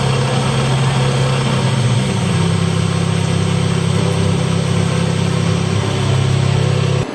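Heavy machinery running with a loud, steady low hum, its pitch shifting slightly about two seconds in, then cutting off abruptly near the end.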